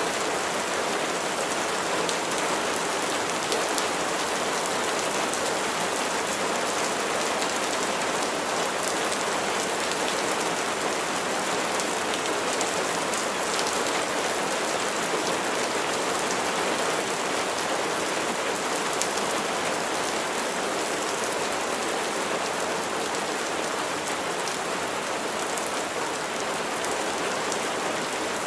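Steady rain falling on a surface, an even hiss with the patter of individual drops.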